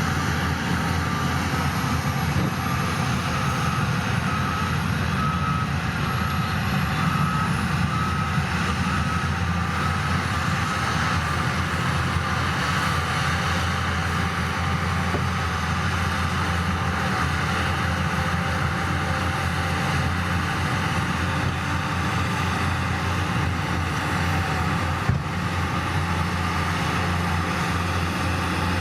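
Heavy diesel machinery running steadily under load. A reversing alarm beeps at an even pace over it for the first dozen seconds or so.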